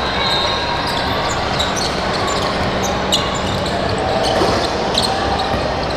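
Basketball game in a gym: the ball bouncing on the hardwood and short sneaker squeaks, over a steady murmur of spectators that echoes in the hall.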